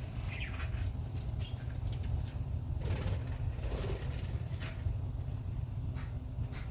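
Budgerigars giving a few short chirps and rustling or fluttering, over a steady low rumble.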